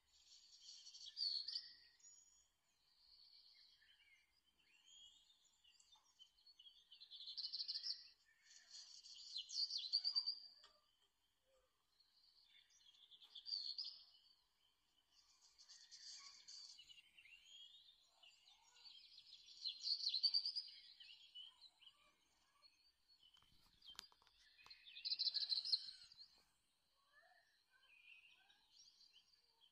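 Songbirds chirping and singing in short, high phrases, one every couple of seconds, some of them trilled. A single soft knock comes about three-quarters of the way through.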